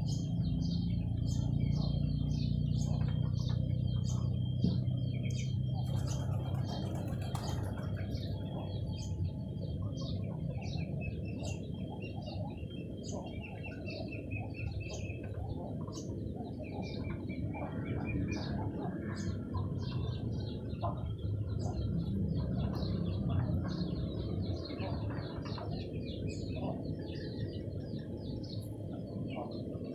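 Small birds chirping busily, many short quick chirps with an occasional brief trill, over a steady low background rumble and a faint steady high whine.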